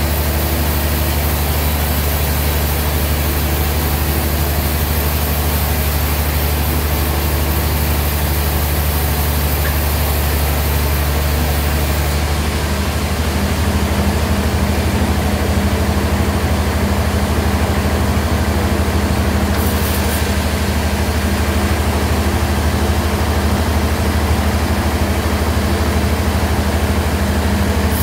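Bandsaw sawmill machinery running with a steady low hum. About thirteen seconds in it grows slightly louder and a new steady tone joins it.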